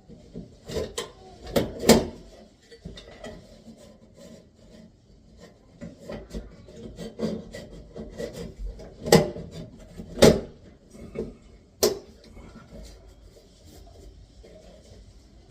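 Irregular knocks, clicks and scraping as a bathroom exhaust fan assembly is worked on by hand during its replacement, with the loudest sharp knocks about two, nine and ten seconds in.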